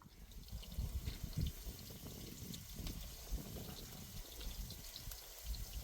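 Liquid trickling, with scattered small ticks over a low rumble.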